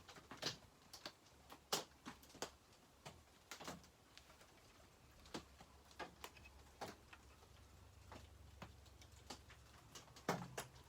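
Faint, irregular light clicks and ticks of small chainsaw parts and hand tools being handled during reassembly, over a low hum.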